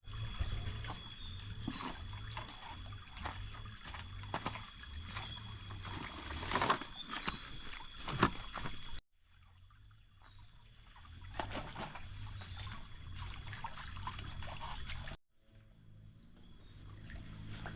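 Outdoor ambience with a steady, high-pitched insect drone, a low rumble and scattered light knocks. It cuts off suddenly about nine seconds in and again about fifteen seconds in.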